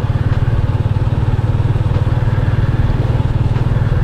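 Motorcycle engine running steadily, its firing pulses giving an even, low throb.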